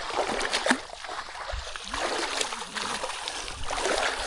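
River water splashing irregularly as people wade and drag a fishing net through it.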